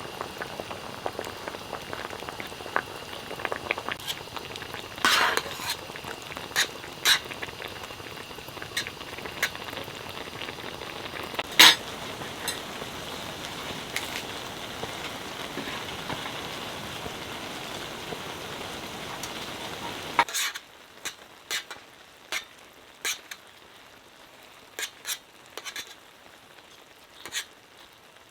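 Food sizzling and frying in a pan, with clicks and taps of a utensil stirring. The sizzling cuts off suddenly about twenty seconds in, leaving only occasional light clicks and taps.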